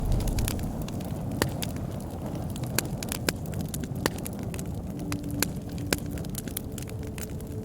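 Campfire crackling: irregular sharp snaps and pops of burning wood, a few of them louder, over a steady low rumble of the flames.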